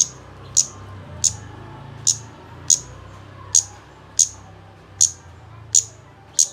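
Kemade bird call: short, sharp, high chirps repeated evenly about every two-thirds of a second, ten in all, over a low steady hum.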